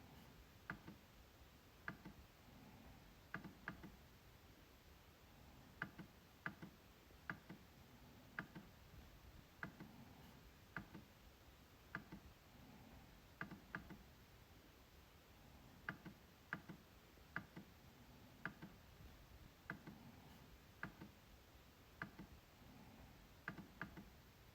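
MacBook trackpad being clicked at an irregular pace, about once a second. Many clicks come as a quick press-and-release pair, with brief pauses between runs of clicks.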